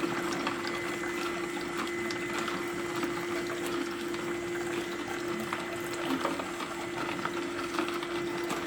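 Nama J2 slow cold-press juicer running with fruit and vegetables, its motor giving a steady even hum, with faint scattered ticks from the produce being pressed.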